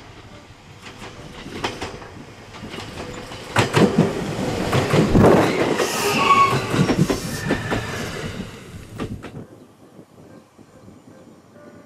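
A 521 series electric train passing close by, its wheels clattering over the rail joints, with a high squeal in the middle of the pass. It builds up, is loudest for a few seconds, and dies away about three quarters of the way through.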